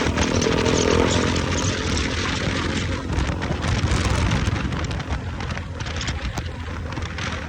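Motorcycle engine running steadily under way, easing slightly in the second half.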